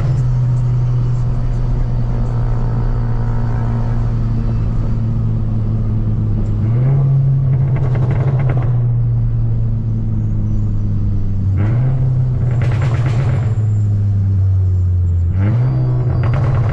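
Cupra Leon's turbocharged four-cylinder engine and exhaust running with a steady drone. Three times the pitch jumps up quickly, with a rougher, crackly edge, then slowly sinks again.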